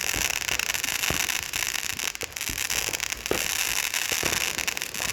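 Fireworks going off: a dense, continuous crackling with many sharp pops throughout.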